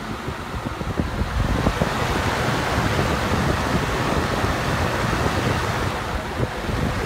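Holmes Blizzard desk fan running on high speed. Its airflow blows across the microphone as a steady rushing noise that swells about a second in and stays loud.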